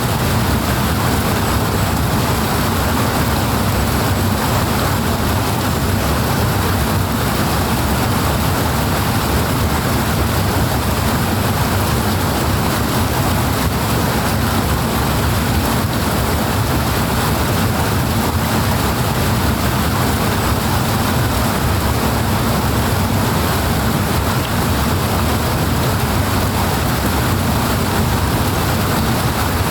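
Fast-flowing water rushing steadily, a constant deep rumble under an even hiss.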